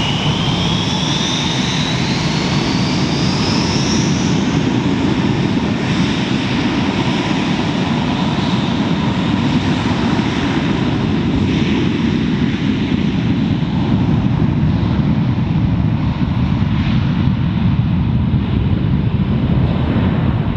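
Jet airliner engines during a landing, a loud steady rush with a high whine that rises in pitch over the first four seconds.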